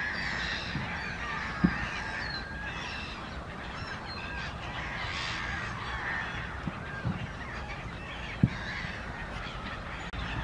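Many birds calling at once in a busy chorus of short overlapping calls and chirps, over a steady low rumble. Two short sharp knocks stand out, one near the start and one near the end.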